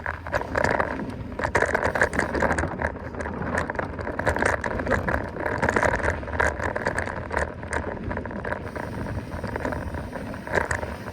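Mountain bike riding along a dirt trail: continuous tyre and trail noise with many small knocks and rattles from the bike over the bumps.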